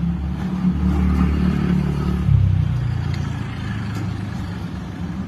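Motor vehicle engine running in road traffic, a low hum that swells to its loudest about two and a half seconds in.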